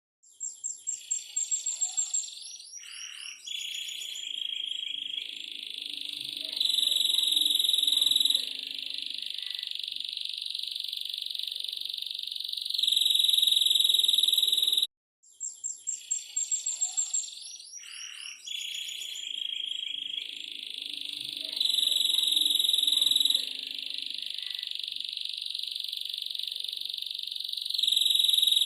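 Domestic canary singing a song learned from the black-throated canary (blackthroat). It opens with rapid clicking trills and then holds long, even, high trills, two of them much louder. The same passage of about fifteen seconds plays twice, with a brief break about halfway.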